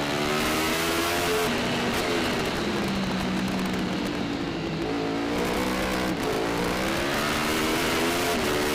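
Yamaha R1 superbike's inline-four engine at race speed, its pitch climbing under throttle and dropping sharply at gear changes about a second and a half in and again about six seconds in, sliding down once in between as it slows. Wind rushes steadily over the bike-mounted camera throughout.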